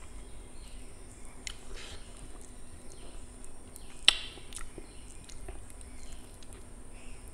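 Close-miked chewing and lip smacking while eating a chicken drumstick in gravy by hand, with scattered small clicks and one sharp, louder click about four seconds in.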